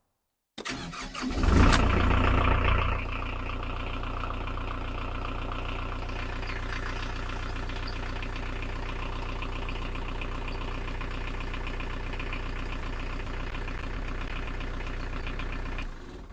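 Narrowboat's 43 hp Canaline inboard diesel engine being started with the key: a short burst of starter cranking, then it catches with a brief loud rise and settles into a steady idle.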